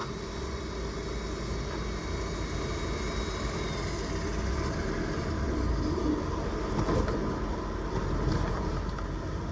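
Jet ski engine running steadily under a constant rush of wind and water noise.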